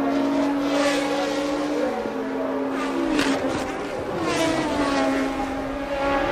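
1982 Formula One race cars running at racing speed. One engine note holds steady and steps down and up in pitch, while other cars surge past about a second in, around three seconds in and again near four and a half seconds.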